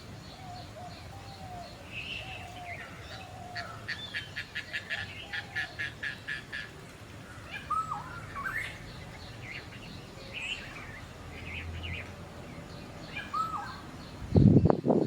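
Several wild birds chirping and calling, including a rapid run of about a dozen clipped notes in the middle and short down-and-up whistled calls, over a low steady rumble. A few loud low thumps come near the end.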